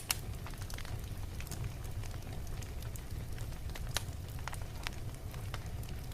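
Wood fire burning in a fireplace: a steady low rumble with irregular crackles and pops, a sharp pop at the start and another about four seconds in.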